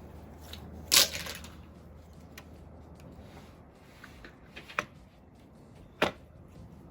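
A short rustling clatter about a second in, then a few scattered light clicks, from things being handled at a window, over a faint low steady hum.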